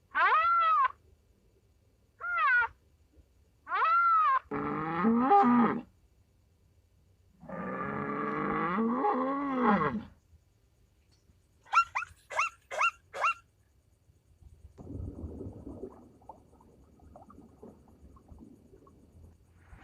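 A string of different animal calls: a few short arching yelps, then two longer rough roaring calls, a quick run of five high calls, and a faint low rumbling at the end.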